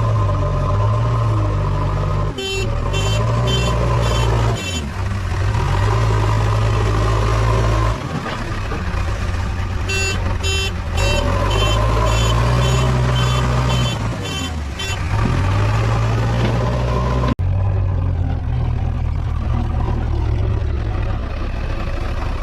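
JCB 3DX backhoe loader's diesel engine running and revving up and down under load. A reversing alarm beeps about twice a second in two spells.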